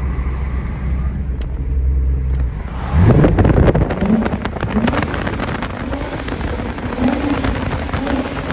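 Infiniti G35xs's 3.5-litre V6 through an ISR single-exit exhaust, droning steadily at cruise, then about three seconds in the throttle opens hard and the exhaust note jumps up loudly, with revs climbing and a raspy crackle that stays loud to the end.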